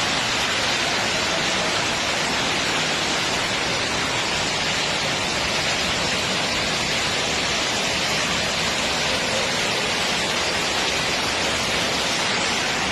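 Steady, even rushing of water, with no separate splashes or impacts standing out.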